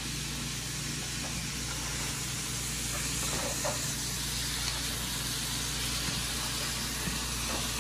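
Diced apples and vegetables sautéing in bacon fat in a skillet, a steady sizzle, with a few faint scrapes of a spatula stirring them.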